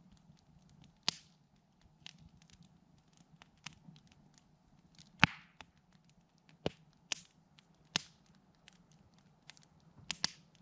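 Campfire crackling: burning wood giving off irregular sharp pops and snaps, several with a brief hiss after them, the loudest about five seconds in.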